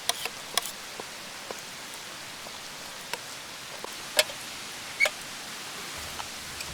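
Wood campfire crackling: a handful of sharp, scattered pops over a steady soft hiss.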